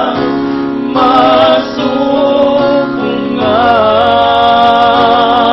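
Tagalog worship song: a singer holds long notes with vibrato over instrumental accompaniment.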